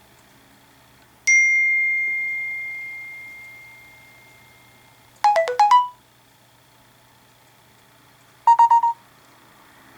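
Three short iOS 7 preset alert tones from an iPod touch, played one after another. A single bell-like ding rings out and fades over about four seconds, then comes a quick run of six short notes, then a burst of five rapid notes.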